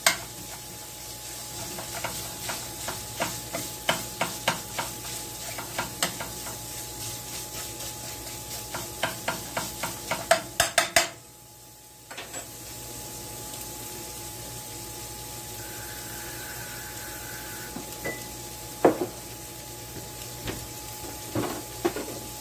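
Ground sausage sizzling as it browns in a skillet, while a utensil stirs and breaks it up, tapping and scraping against the pan in many quick strokes for the first half. After a drop of about a second the sizzle carries on steadily, with a couple of single clinks near the end.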